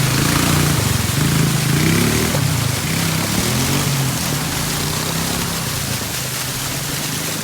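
Quad bike engine running while being ridden, its pitch rising and falling with the throttle over the first few seconds and then holding steady, under a steady rush of wind noise.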